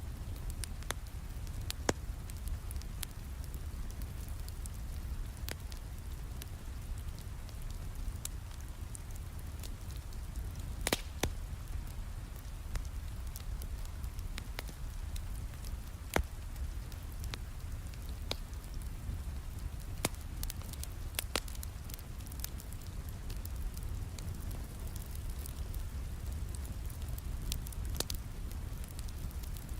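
Wood fire crackling in a fireplace, with scattered sharp pops, a few of them louder, over steady rain and a low rumble.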